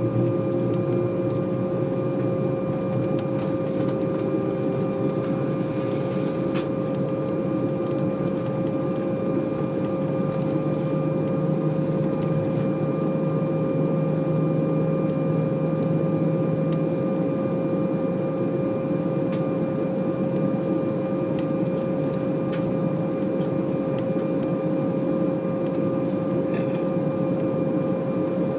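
Cabin noise of an Embraer E190 on the ground, its GE CF34 turbofan engines running at idle: a steady hum with a held whine tone over it.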